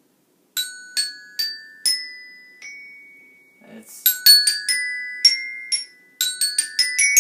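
Marching-band bells (a glockenspiel) struck with mallets, picking out short phrases of single notes that each ring on. A handful of slower notes first, a short gap about three seconds in, then quicker runs of notes.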